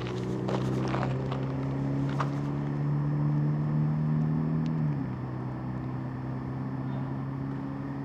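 A steady, low engine or motor hum made of several tones, dropping slightly in pitch about five seconds in. A few footsteps sound near the start.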